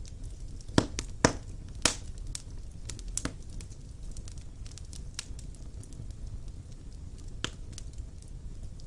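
Fire burning in a stone fireplace, crackling with scattered sharp pops over a low, steady rumble of flame. The loudest pops come in a quick cluster in the first two seconds.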